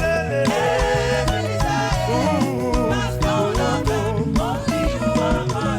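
Live gospel praise music: a band with drums plays a steady upbeat groove while voices sing the melody.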